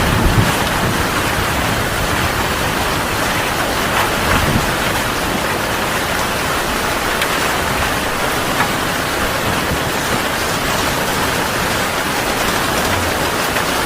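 Heavy rain falling steadily: a dense, even hiss of rain on surfaces. A low rumble of thunder dies away right at the start.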